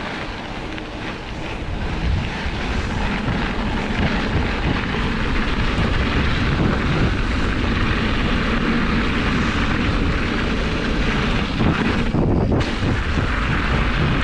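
Wind rushing over the microphone and tyre rumble from a mountain bike rolling down a trail. It grows louder over the first two seconds and then holds steady.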